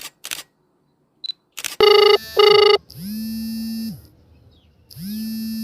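Telephone ringing sound effect: a pair of short rings about two seconds in, then two longer tones of about a second each.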